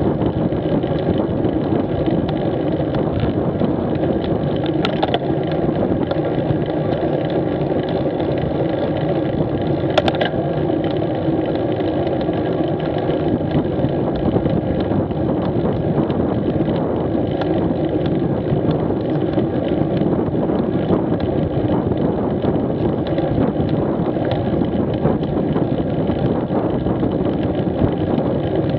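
Street motorcycle engine running at a steady cruising speed, with wind and road noise. There are two brief clicks, about 5 and 10 seconds in.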